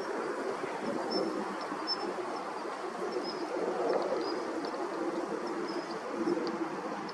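Short, thin, high call notes of a Daurian redstart, repeated about once a second, over a steady rushing background noise.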